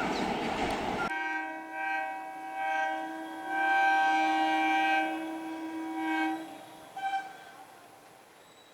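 Indian EMU local train's horn sounding a series of blasts at one steady pitch, longest and loudest in the middle, with a short final toot. Before it, in the first second, a loud rushing train noise cuts off abruptly.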